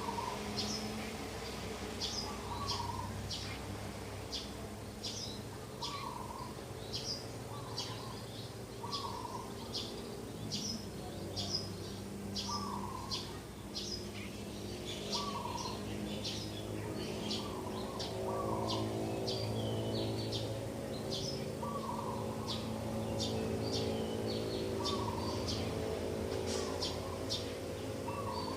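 Morning birdsong: many short, high chirps, about two or three a second, from several birds. A lower, shorter call repeats every second or two, over a steady low background hum.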